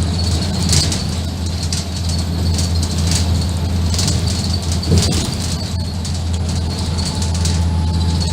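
Inside a Scania N230UD double-decker bus: the Scania diesel engine drones steadily while the body's interior panels and fittings rattle and click, with one sharper knock about five seconds in.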